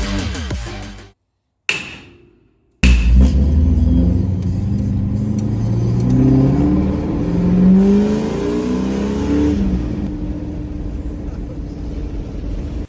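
A truck engine revving, its pitch climbing slowly for about six seconds, then dropping back and running steadily.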